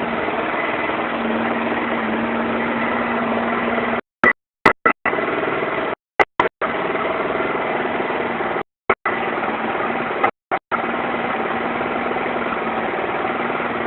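Motorcycle engine idling steadily. The sound cuts out completely for brief moments several times: dropouts in the recording.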